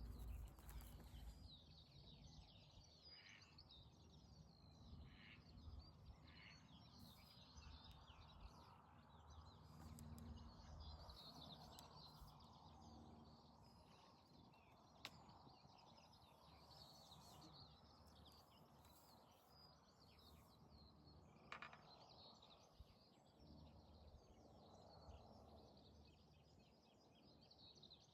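Faint birdsong, many small chirps, over quiet open-air background noise, with two brief soft clicks partway through.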